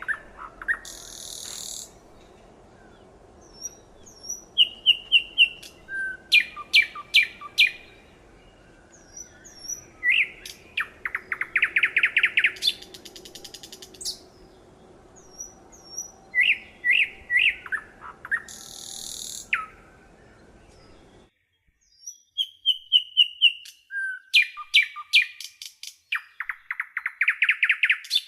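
A songbird singing: repeated phrases of short high chirps followed by fast rattling trills, each phrase a couple of seconds long with short pauses between.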